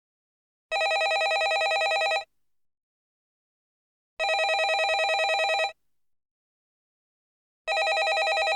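Landline telephone ringing: rings about a second and a half long with a fast trill, repeating every three and a half seconds, with silence between. Two full rings, and a third begins near the end.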